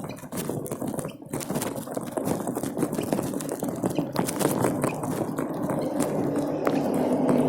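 Heavy rain and running water, with many small drip and splash ticks through it. A steadier low hum builds in near the end.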